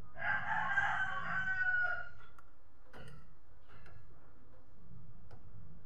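A rooster crows once, a call of about two seconds that falls slightly in pitch toward its end, followed by a few faint clicks.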